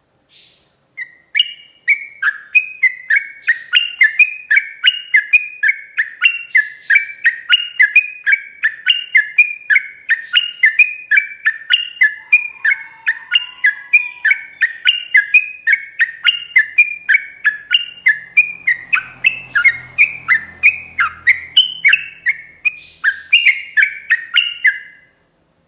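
Yellow-vented bulbul (trucuk) singing a long, unbroken run of quick slurred chattering notes, about three a second, starting about a second in and stopping shortly before the end.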